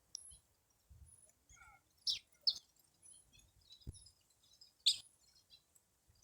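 Small birds chirping: three short, sharp chirps stand out, about two, two and a half and five seconds in, among faint thin high notes and a brief run of falling notes.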